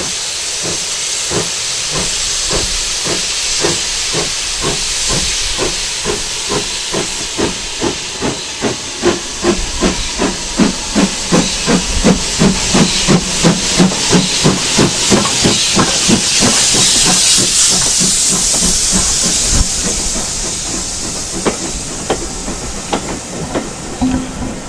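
Steam locomotive working hard, with loud hissing steam and a train of exhaust chuffs that quicken steadily as it picks up speed. The sound grows louder toward the middle and eases a little near the end.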